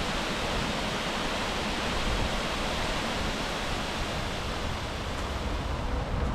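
Waterfall rushing steadily: an even hiss of falling water with no breaks.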